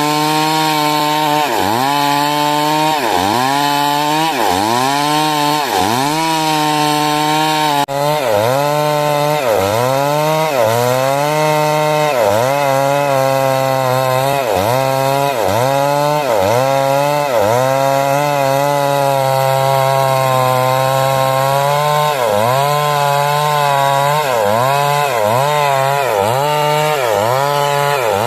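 Stihl MS 382 two-stroke chainsaw cutting wood under load. The engine's pitch dips and recovers over and over, about once a second, as the chain bites and clears.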